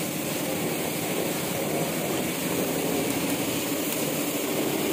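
Small hatchback car's engine idling steadily close by, under a steady outdoor hiss.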